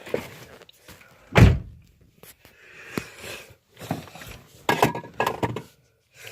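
Car door being shut with one loud thump about a second and a half in, followed by a sharp click and smaller rustling and clicking sounds of someone settling into the car.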